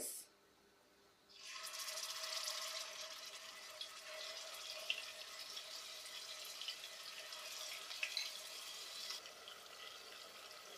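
Marinated chicken pieces frying in hot oil in a deep pan: a steady sizzle with small crackling pops, starting about a second in.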